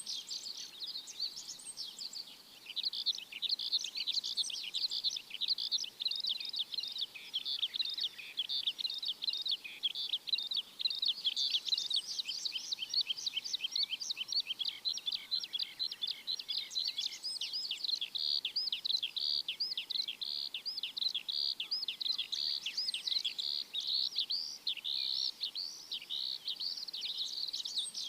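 A dense chorus of many small birds chirping together, rapid high chirps overlapping without a break.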